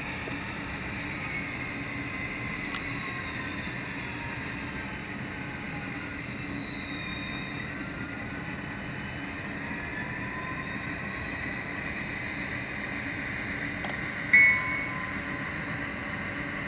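HO-scale Atlas GP40 model locomotive running, its Tsunami sound decoder playing a steady EMD diesel sound through the model's small speaker, with whines that slowly rise and fall in pitch. A little before the end the locomotive bell sounds once, briefly and louder, rung by accident.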